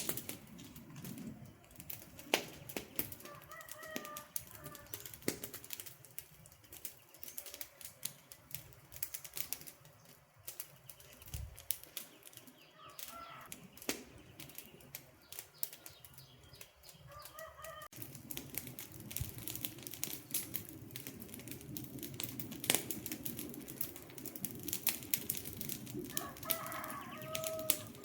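Wood fire crackling with a steady scatter of sharp pops and snaps. A bird calls briefly four times over it. The fire's low rushing grows fuller partway through.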